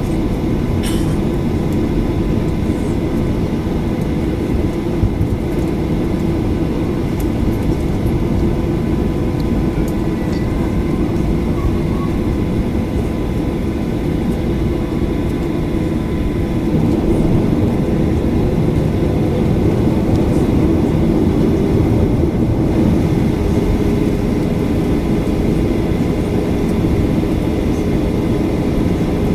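Steady rumble of a Boeing 737-800's CFM56-7B jet engines and airframe heard inside the passenger cabin, growing a little louder about halfway through.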